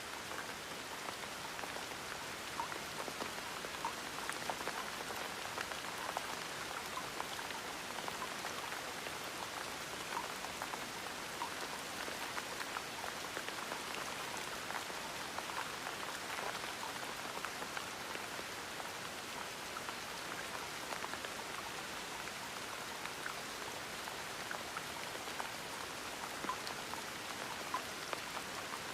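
Steady gentle rain: an even hiss of rainfall with many small drop ticks scattered through it.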